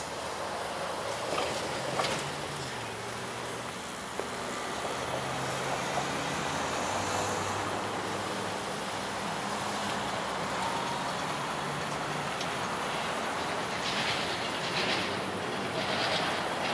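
Diesel locomotive approaching from a distance, its engine a low drone that shifts in pitch over a steady rumble, with a few rail clicks near the end as it draws closer.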